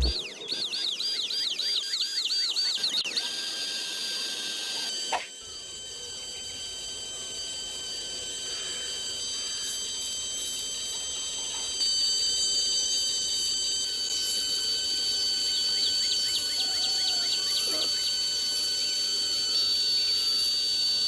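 Small electric motor running with a steady high-pitched whine over a hiss, with a sharp click about five seconds in and a slight rise in level about twelve seconds in.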